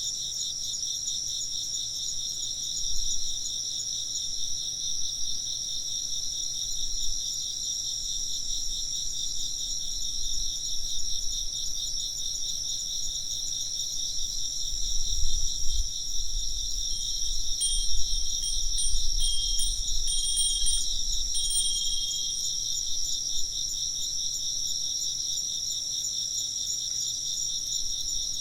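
Dense chorus of insects chirping steadily in fast pulses. About halfway through, a Japanese fūrin wind bell rings several times in quick succession over a few seconds, with a low rumble underneath.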